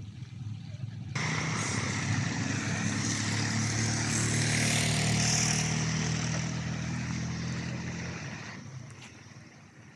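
A motor vehicle passing close by: engine hum and road noise that start abruptly about a second in, grow to a peak around the middle and fade away before the end.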